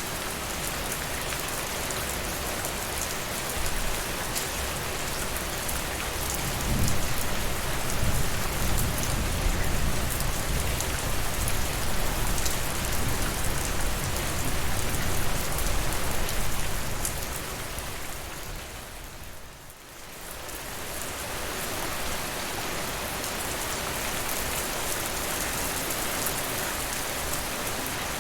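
Steady rain falling on a surface, with scattered small crackles. A low rumble swells in about a quarter of the way through and fades again, and the whole sound dips briefly about two-thirds of the way through.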